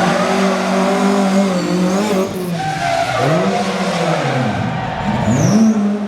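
Rally car engine revving hard on a stage; the revs fall away about two seconds in, climb again, dip and climb once more near the end as the driver lifts off and gets back on the throttle.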